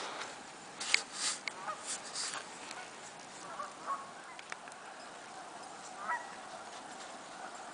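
Geese honking: a cluster of short calls in the first two or three seconds, the loudest about a second in, then a few scattered calls up to about six seconds in, over a steady background hiss.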